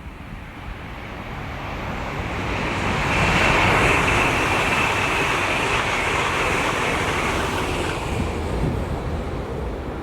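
A train passing through the station at speed: a rushing, hissing noise swells over about three seconds, holds loud, then fades away near the end.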